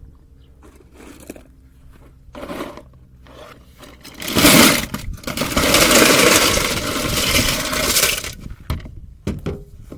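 Metal die-cast toy cars being tipped into a tin together, clinking and scraping against each other in one long clatter of about four seconds, with a few smaller clinks before and after it.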